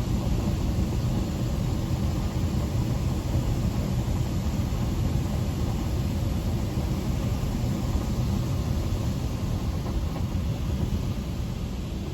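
Belanger Vector Rapid Wash touchless car wash running: a steady, rumbling rush of water spray from the moving gantry striking the car body.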